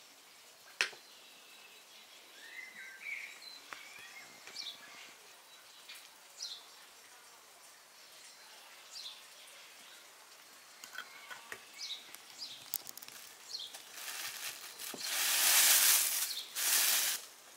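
Faint bird chirps over quiet outdoor background. A sharp click comes about a second in, and a loud rush of noise lasts about three seconds near the end.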